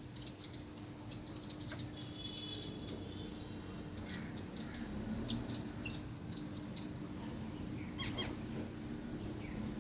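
Small birds chirping in quick runs of short, high notes, over a steady low hum.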